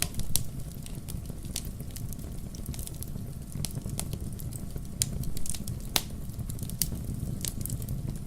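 Wood logs burning in a fireplace: a steady low rumble of flame with sharp crackles and pops scattered throughout, the loudest pop about six seconds in.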